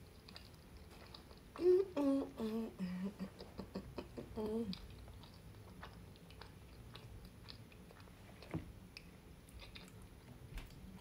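Closed-mouth chewing of a mouthful of cheesy lasagna, with a run of hummed 'mmm' sounds from about two to five seconds in, gliding down in pitch, then soft wet mouth clicks.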